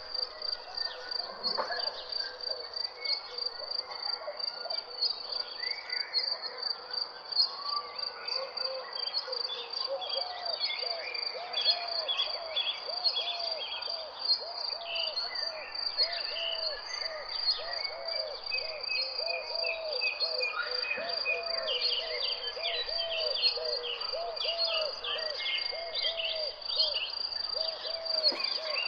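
Nature soundscape: a steady high-pitched insect trill throughout, under many birds calling and chirping. From about a third of the way in, a low call repeats over and over, more than once a second.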